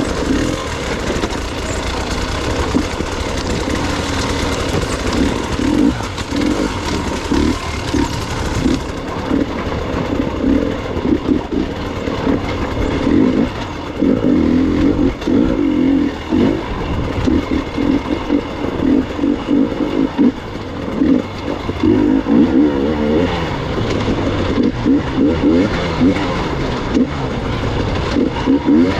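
Gas Gas EX 300 two-stroke enduro motorcycle engine revving in short, uneven throttle bursts while climbing over rough, rocky ground.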